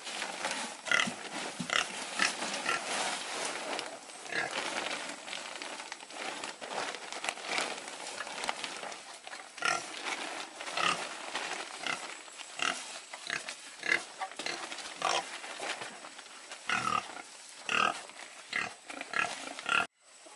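Pigs calling: many short, sharp calls one after another over a continuous noisy background, cutting off abruptly near the end.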